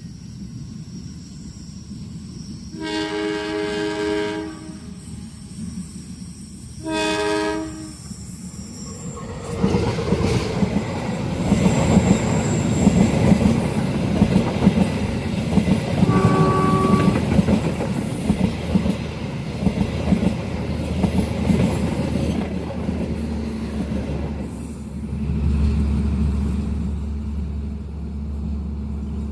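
Diesel locomotive horn sounding twice, a long blast then a shorter one, followed by a train passing at speed: loud rumbling with the wheels clattering over the rail joints, a short high tone about halfway through, and a lower rumble as it goes by.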